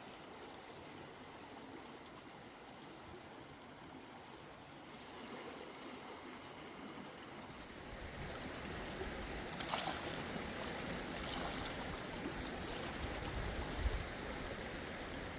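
Mountain stream running over rocks, a steady rushing that grows louder about halfway through, with a couple of brief knocks.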